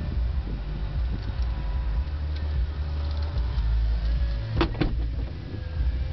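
2005 Mercedes-Benz SLK350's power retractable hardtop closing: a steady motor whine as the roof mechanism moves, with two sharp clicks about four and a half seconds in.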